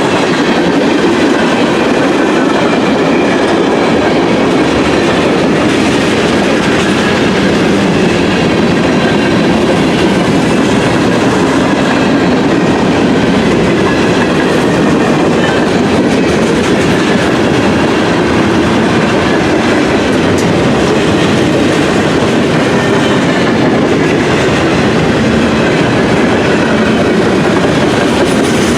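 Train cars rolling past at close range: a steady loud rumble and clatter of wheels over the rails, with a faint high squeal wavering above it.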